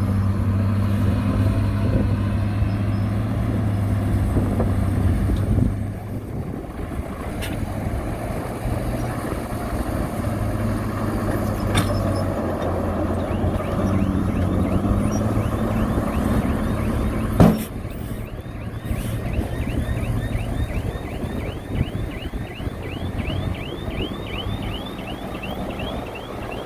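Heavy diesel construction machinery running steadily, its engine drone dropping in level about a fifth of the way in. A single sharp knock comes about two-thirds of the way through, and a rapid series of short high chirps runs through the second half.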